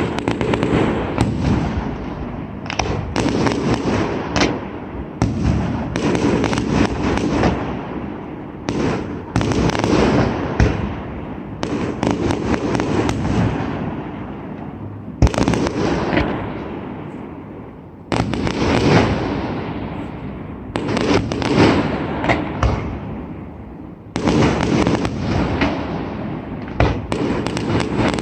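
Fireworks display: a rapid barrage of aerial shell bursts and crackling reports, loud and almost continuous. The barrage falls away into echoing lulls twice, about halfway through and again some seconds later, before building back up.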